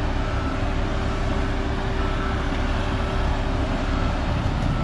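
Heavy vehicle engine running steadily, with a faint backup alarm beeping about once a second.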